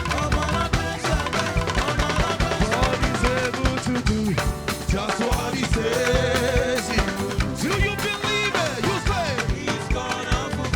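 Live band playing upbeat African gospel dance music with a steady drum beat and a lead instrument's wavering melody.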